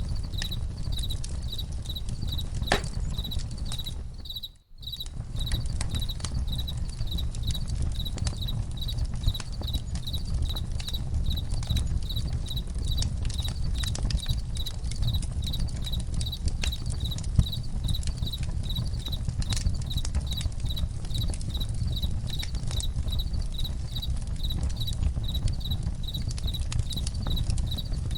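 Campfire crackling with scattered sharp pops over a low steady rumble, while crickets chirp in a high, evenly pulsing rhythm. Everything cuts out for a moment about four and a half seconds in.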